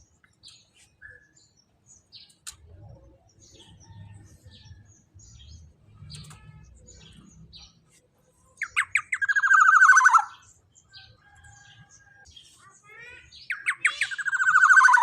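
Black-naped oriole calling loudly twice, each call a fast stuttering run of notes that slides down in pitch, about nine seconds in and again near the end. Faint scattered chirps fill the gaps between.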